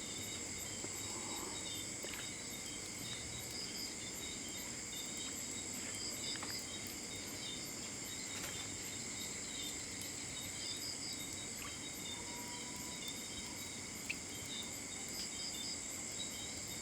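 Night insect chorus, crickets chirping in steady high-pitched trills with a fast pulsing shimmer above, with a few faint clicks.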